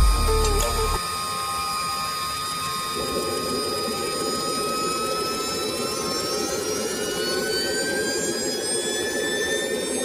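Small see-through jet engine starting up: a steady whine that rises slowly in pitch as the turbine spools up, joined about three seconds in by a steady rushing noise.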